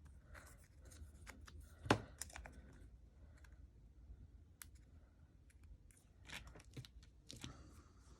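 Quiet paper-crafting handling sounds: light rustling of paper and small clicks, with one sharp knock about two seconds in and a few more taps and rustles near the end.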